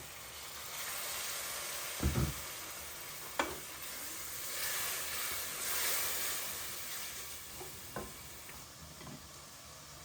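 Food sizzling in a hot pan, the hiss swelling and then fading, with a few clicks of a utensil against the pan and one dull thump about two seconds in.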